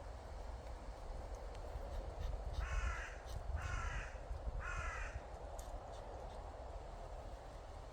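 A crow cawing three times, each harsh call about a second apart.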